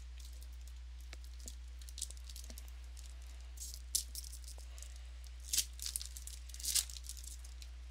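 Trading cards and foil pack wrappers being handled: a few short crinkling, rustling noises, the sharpest one near the end, over a steady low electrical hum.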